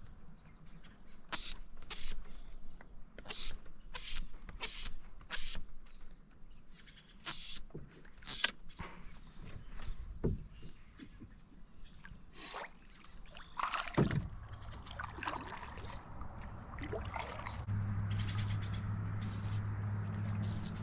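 Irregular sharp knocks and taps of gear and paddle against a canoe hull, over a steady high-pitched whine. A low steady hum comes in during the last few seconds.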